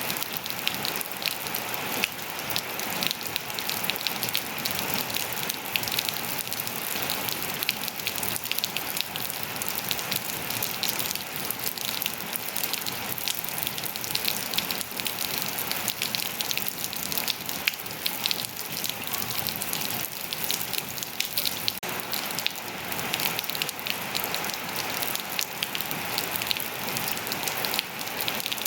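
Steady rain falling on surfaces, a dense hiss with many sharp individual drop taps and no let-up.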